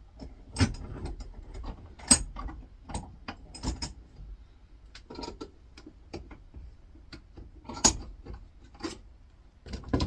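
Irregular sharp metal clicks and knocks of hand tools working a stubborn copper winding reel off a small motor's steel core. The loudest knocks come about half a second in, just after two seconds and near eight seconds.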